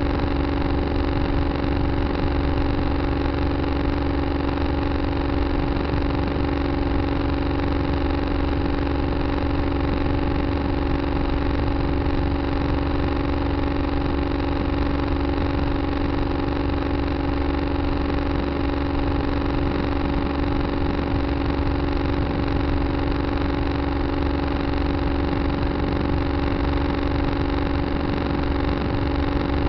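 Tractor engine running at a steady speed, an unchanging hum throughout.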